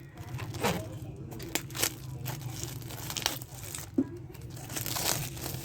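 Irregular clicks, scrapes and crinkling from plastic parts and packaging being handled, with one low knock about four seconds in and a steady low hum underneath.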